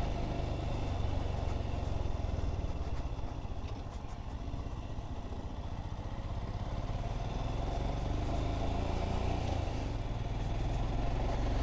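Motorcycle engine running steadily while riding, with a low rumble. It eases slightly a few seconds in and picks up again toward the end.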